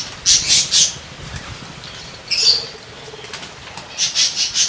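Aviary birds flapping their wings in quick runs of beats near the start and again near the end, with a short high chirp about halfway through.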